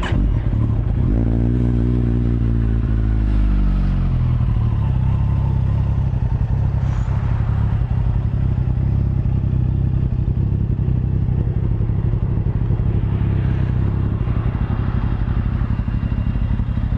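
2010 Kawasaki ZX14's liquid-cooled inline-four running through aftermarket Two Brothers Racing mufflers. About a second in, the throttle is blipped once and the revs sink back to idle over the next few seconds, then it idles steadily.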